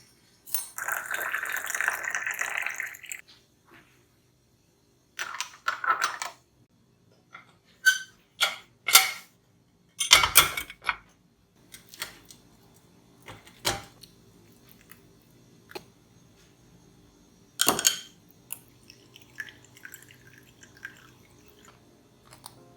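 Kitchen handling sounds: a short run of water of about two and a half seconds near the start, then scattered single knocks and clinks of dishes and utensils being set down and handled.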